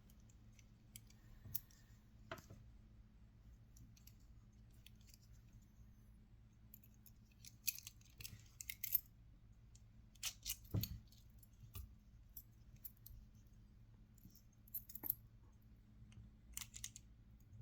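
Faint, scattered small clicks, snaps and taps of a Mercedes-Benz key fob being handled and opened for a battery change, in clusters about halfway through, over a steady low hum.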